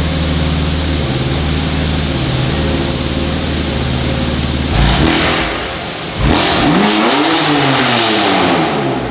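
BMW M4 F82 twin-turbo straight-six through a Milltek exhaust, running steadily at first, then a loud blip of the throttle about five seconds in. About six seconds in it accelerates hard, its pitch climbing and then falling away.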